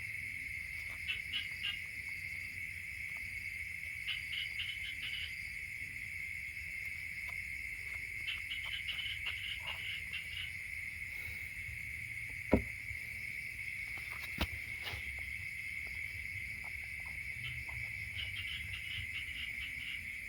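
A steady, high-pitched insect trill, with groups of rapid chirps breaking in every few seconds. Two sharp clicks stand out, the louder one about halfway through and a second shortly after.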